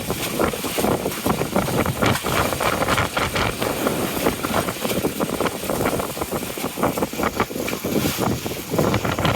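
Strong wind buffeting the microphone in rapid, uneven gusts, mixed with water rushing and splashing against a sailing boat's hull in a rough, steep sea.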